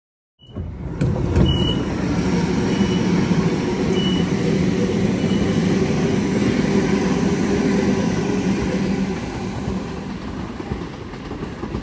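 Sydney Trains Waratah electric train running through the station platform: a loud steady rumble of wheels on rail with motor hum, easing off near the end. Faint short high beeps sound about once a second during the first few seconds.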